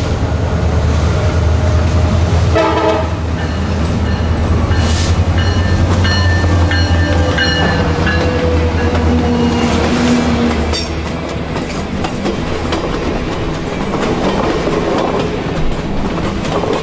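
Alaska Railroad diesel locomotives passing close by: a loud, deep engine rumble with wheels clicking over the rail joints. The rumble eases after about ten seconds as the train cars roll past.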